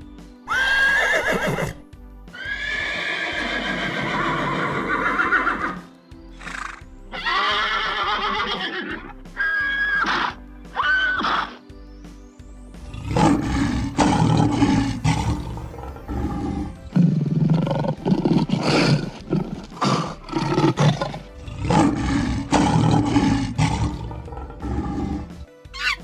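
A series of loud animal calls, several long falling cries one after another, with background music.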